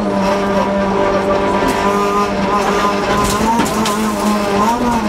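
Inside the cabin of a Honda Civic F2.13 rally car, its four-cylinder engine running hard under load at a steady pitch, dipping briefly a few times as the car goes through bends.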